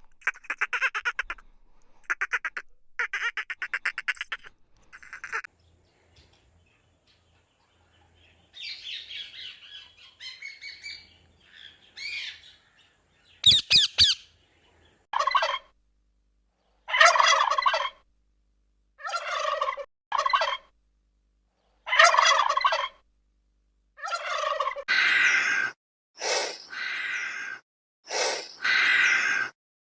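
Domestic fowl calling. A run of rapid pulsed calls comes first, then scattered chirps, then a series of separate calls about a second long, each rising and falling, the last few harsher.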